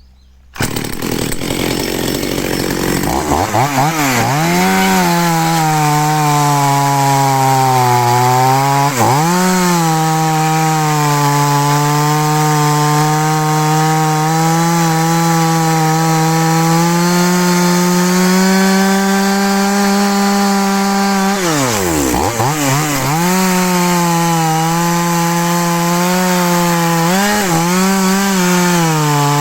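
A Zenoah G2500 two-stroke chainsaw engine starts and runs with a steady buzz. Its pitch sags sharply about two-thirds of the way through, nearly dying, then picks back up, with a couple of quick pitch flicks near the end.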